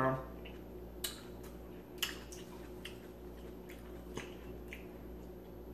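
Quiet wet clicks and smacks of chewing: sauce-dipped bell pepper being eaten close to the microphone, about eight short clicks spaced irregularly.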